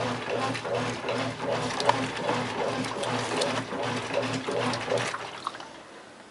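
Brastemp top-loading washing machine agitating a load of towels: the motor hums in pulses about twice a second as the agitator swings back and forth, with water sloshing. The agitation stops about five seconds in.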